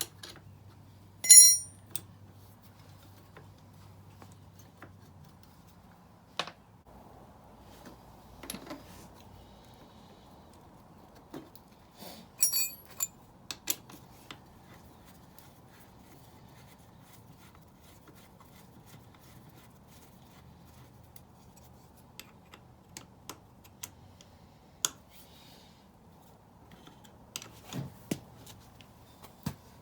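Metal hand tools and small parts clinking and clattering now and then. A sharp ringing clink comes about a second in, and a quick cluster of clinks comes near the middle.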